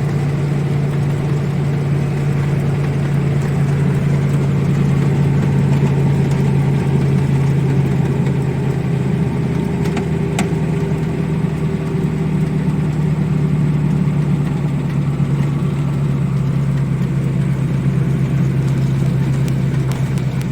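ZIL-130 truck's V8 petrol engine running at a steady pace on the move, heard from inside the cab, with one brief click about ten seconds in.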